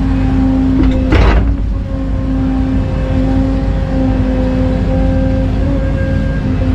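Excavator diesel engine running steadily with a constant hum and low rumble, with a short burst of hiss about a second in.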